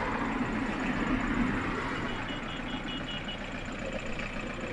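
Car engine idling steadily, with a handheld breathalyzer giving a quick series of short high beeps about two seconds in as the breath sample is taken.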